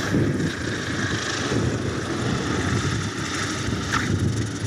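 Light aircraft engine and propeller running steadily, a continuous drone with no pauses.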